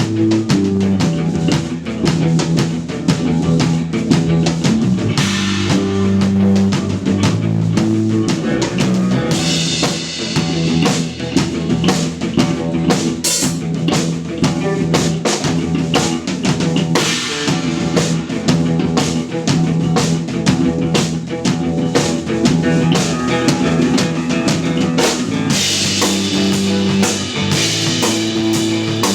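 Live instrumental post-rock from an electric bass, electric guitar and drum kit, the drums driving a busy beat with rimshots and bass drum under sustained bass notes. Cymbals wash in for stretches in the middle and near the end.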